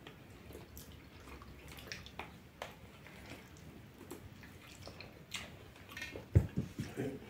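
Close-up eating sounds of goat meat being gnawed and chewed: scattered wet mouth clicks and smacks. About six and a half seconds in comes a short run of louder thumps.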